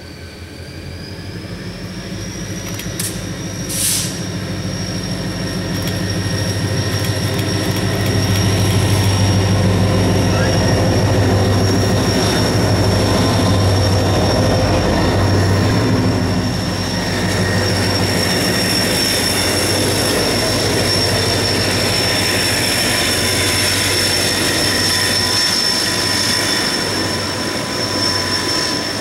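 Diesel freight locomotives approach and pass, their low engine drone growing louder over the first several seconds, then a long string of tank cars rolls by with steady wheel-and-rail noise. A thin, steady high-pitched wheel squeal runs throughout.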